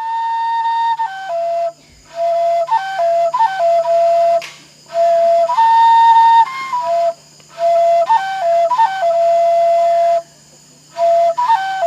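A solo flute plays a short melody over and over: each phrase holds a high note, steps down through quick ornamented notes and settles on a held lower note, with brief pauses between phrases. A faint steady low hum lies underneath.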